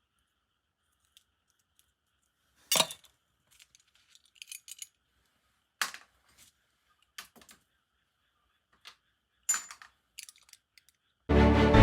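Small metal parts of a Tomica die-cast toy car clinking and clicking as it is handled during disassembly: a dozen or so short, sharp, separate clicks. Music starts abruptly near the end.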